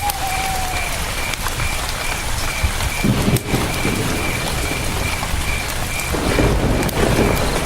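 Campfire crackling with sharp scattered pops over the steady rush of a river, with a cricket chirping in a steady pulse throughout.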